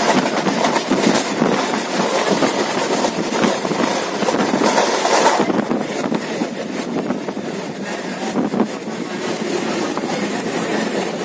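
Steady noise of a local train coach running on the rails, heard from inside the carriage, with rumble and wheel clatter throughout.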